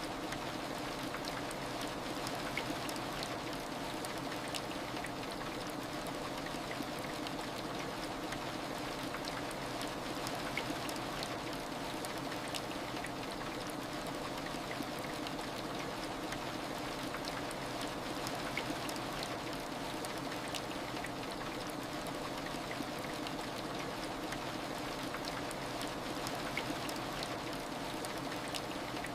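Steady heavy rain: a continuous even hiss with many small drop ticks scattered through it.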